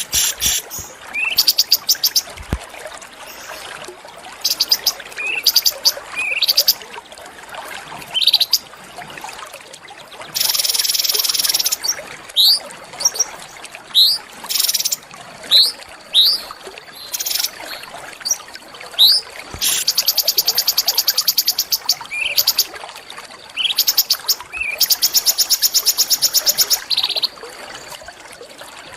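Small songbirds singing: short, sharp rising whistled notes repeated in phrases, with several fast, high, buzzing trills lasting a second or two.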